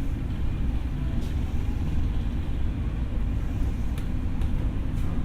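Tokyo Metro 6000 series electric train heard from inside the car while running: a steady low rumble with a few faint clicks.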